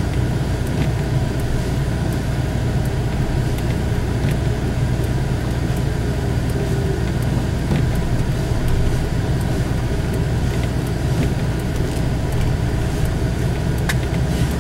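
Steady engine and road drone heard from inside the cab of a four-wheel-drive vehicle driving on a snow-covered road.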